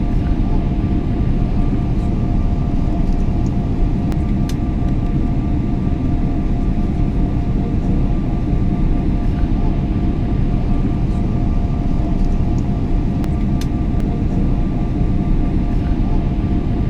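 Airliner cabin noise in flight: a steady deep rumble of engines and rushing air, with a faint steady two-tone hum above it and a few faint ticks.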